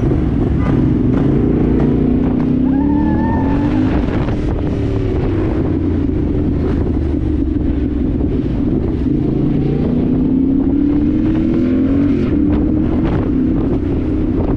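Dirt bike engine running while riding, its pitch rising and falling several times as the throttle opens and eases off.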